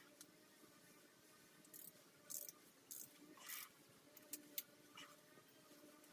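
Faint, scattered short scrapes and rustles with a couple of sharp ticks, over near-silent room tone.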